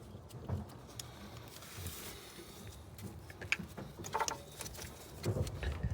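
Scattered clicks and light metal knocks of hand tools working on the engine while the old distributor is worked loose. The knocks come more often in the second half.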